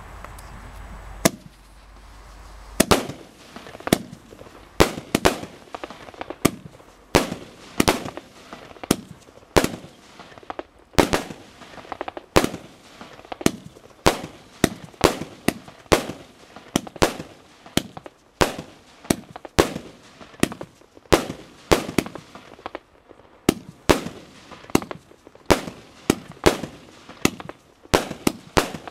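Keller Feuerwerk 'Hannibal / Master of Disaster' firework battery firing, a sharp bang about a second in, then a steady series of bangs at roughly one to two a second, each with a short echoing tail.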